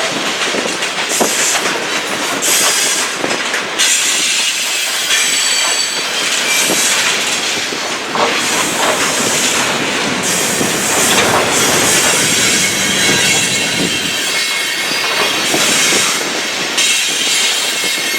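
BNSF freight train rolling past close by, its cars' wheels clacking over the rail joints, with thin, high-pitched flange squeal coming and going.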